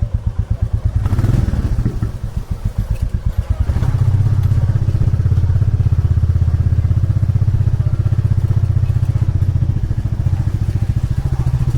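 Motorcycle engine running with an even, pulsing beat. It picks up briefly about a second in, then from about four seconds in runs louder and steadily as the bike gets under way.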